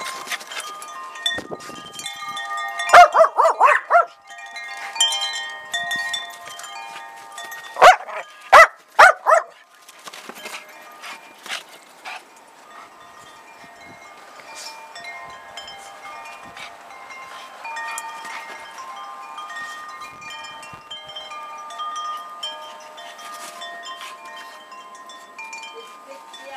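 Metal wind chimes ringing steadily, with many overlapping tones. A small dog barks over them: a quick run of barks about three seconds in, then three loud barks about eight to nine seconds in.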